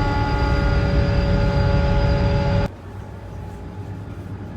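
A vehicle running: a steady low rumble with a constant whine over it. It cuts off sharply about two and a half seconds in, and a quieter steady low hum follows.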